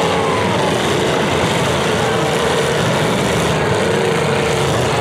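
Several demolition derby cars' engines running hard together, a loud continuous engine noise whose pitch wavers up and down as the drivers rev.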